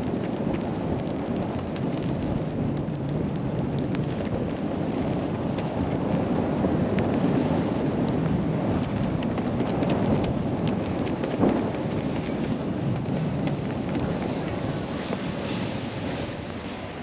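Wind rushing over a helmet-mounted camera's microphone and a snowboard sliding through snow, a steady rushing noise with one brief knock about eleven seconds in, easing slightly near the end.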